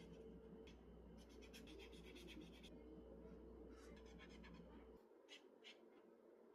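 Faint scratching of a coloring tool stroked across a coloring-book page: a quick run of strokes about a second in, then a few separate strokes near the end.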